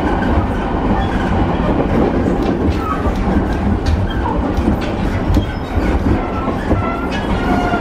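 Running sound inside a JR East E217 series electric commuter car, a motor car with Mitsubishi IGBT-VVVF control: a steady rumble of wheels on the track, with occasional sharp clicks from the rail joints.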